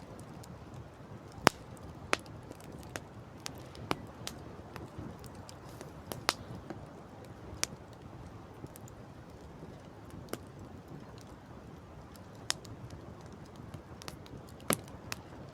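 Campfire crackling: sharp wood pops at irregular intervals, the loudest about a second and a half in and again near the end, over a steady low rush of wind.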